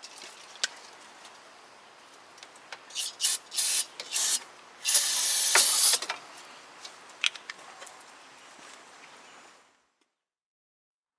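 Aerosol can of brake cleaner spraying: several short hissing bursts about three seconds in, then one longer spray of about a second, with a few light clicks around them. The sound cuts off suddenly near the end.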